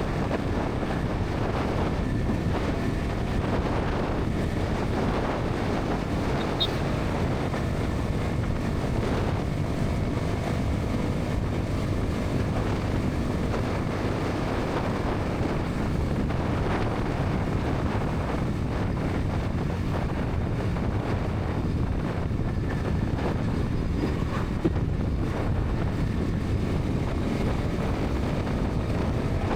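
Bajaj Pulsar NS 200's single-cylinder engine and exhaust running at a steady highway cruise, with wind rushing over the helmet-mounted microphone.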